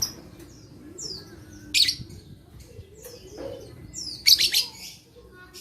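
Lovebirds calling in sharp, shrill chirps and squawks, several of them falling in pitch. The loudest bursts come about two seconds in and again just after four seconds.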